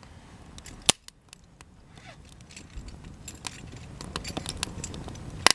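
Cedar offcuts burning in a campfire, crackling with scattered small pops: a sharp pop about a second in and a louder snap right at the end.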